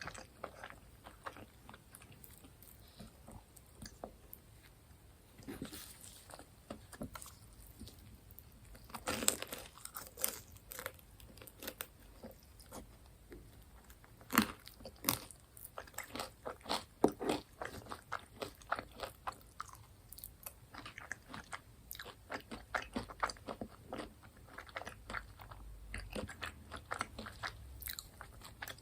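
Close-miked chewing and crunching of crisp fried food, with irregular crackly bites. The loudest crunches come about nine, fourteen and seventeen seconds in.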